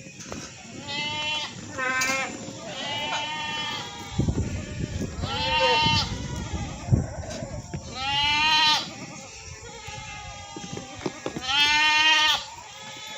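Goats bleating, about six quavering bleats, a few close together near the start and others spaced a few seconds apart. A stretch of low rumbling noise runs under the calls around the middle.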